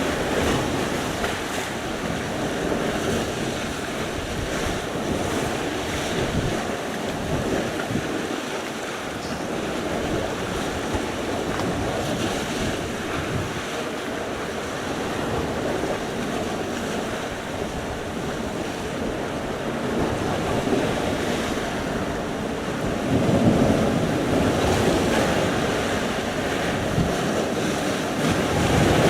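Sea surf: waves breaking and washing in continuously, with a louder wave surging about three quarters of the way through and again near the end. Wind buffets the microphone throughout.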